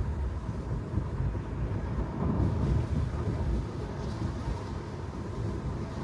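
Road and tyre noise of a Tesla Model 3 driving on wet pavement: a steady low rumble with a little hiss above it, swelling briefly a couple of seconds in.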